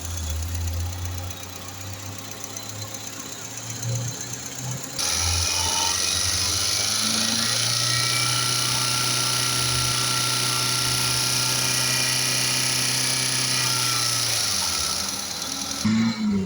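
2009 Suzuki Wagon R engine running. About five seconds in, a louder, steady whir with a hiss sets in and holds at an even pitch for about ten seconds, then falls away near the end.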